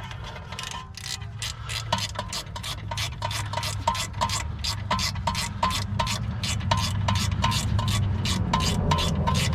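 Hand ratchet wrench clicking steadily, about three clicks a second, as a 10 mm bolt is run in.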